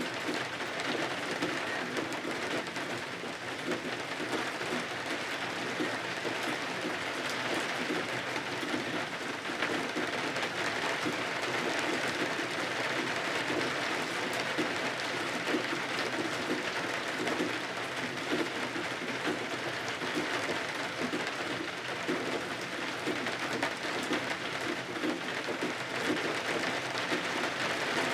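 Steady rain falling on windows and roof, an even hiss dotted with fine ticks of drops.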